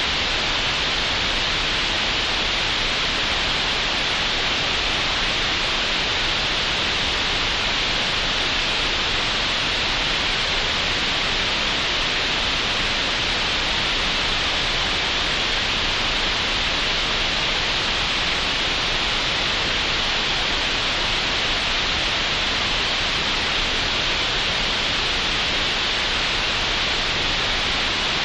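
Steady green noise generated in Audacity: an even, unchanging hiss that is strongest in the upper-middle pitch range, with little deep rumble.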